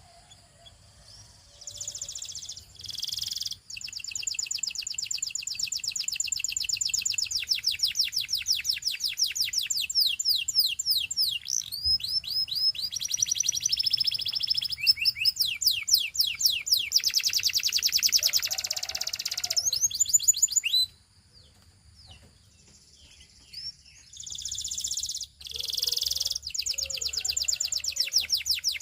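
Canary singing a long song of fast, high trills and rolls of rapidly repeated notes; it breaks off for a few seconds about three-quarters of the way through, then starts again.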